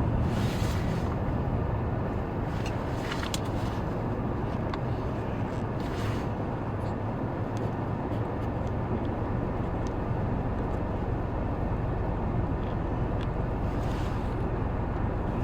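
A car driving, a steady low road and engine rumble with a few faint brief hisses over it.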